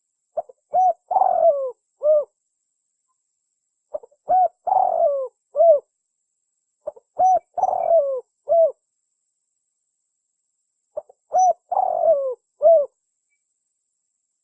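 Spotted dove (tekukur) cooing: four alike phrases a few seconds apart, each a couple of short notes, a longer falling coo and a final short note.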